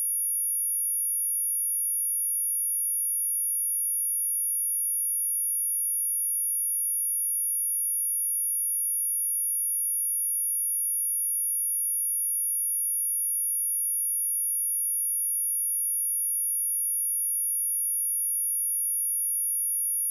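Steady, high-pitched 10396 Hz sine test tone, one pure unchanging pitch, as played to test a speaker or clear water and dust from it.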